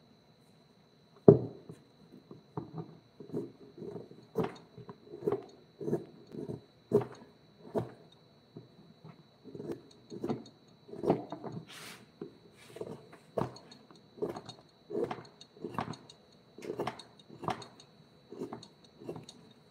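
A string of dull knocks, roughly one or two a second and uneven in strength, the first the loudest, like a wooden mallet tapping a carving chisel into wood. A faint steady high whine lies underneath, with a brief hiss about halfway through.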